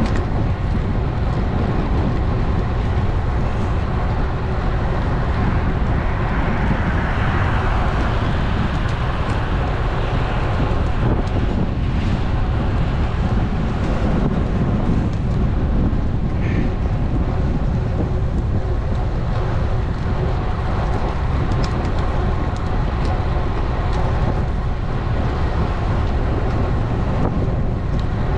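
Wind buffeting an action camera's microphone on a moving road bike, a steady low rush mixed with tyre and road noise.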